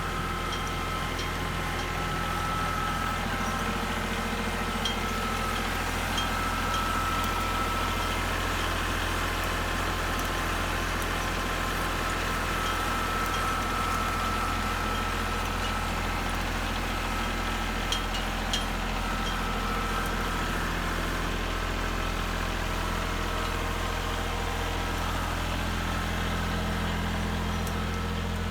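Tractor engine running steadily at low speed while the tractor is driven slowly to settle its newly fitted tire chains, with a few faint sharp clicks.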